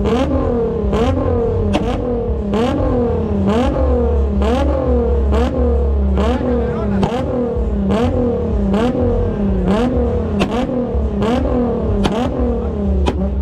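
Car engine revved over and over, about once a second: each time the pitch climbs and then falls back with a sharp crack at the top, as in a 2-step rev contest.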